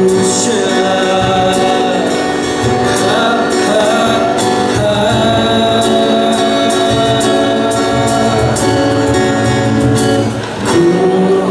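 Singing over strummed acoustic guitar, with sustained sung notes above a steady strumming rhythm.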